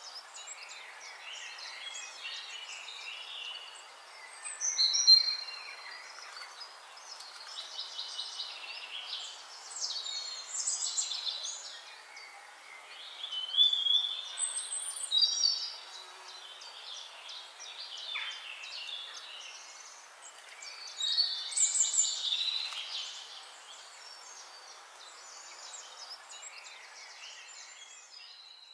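Several wild birds chirping and singing in quick overlapping phrases over a steady outdoor hiss, with louder bursts of song about five seconds in, around the middle, and again about three-quarters through.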